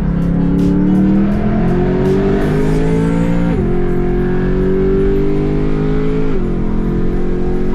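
BMW E46 M3's straight-six engine accelerating hard through the gears, its pitch climbing and then dropping sharply twice with upshifts, about a third of the way in and again near the end.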